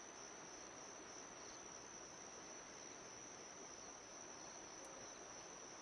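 Crickets trilling: a steady high-pitched insect chorus over faint background hiss.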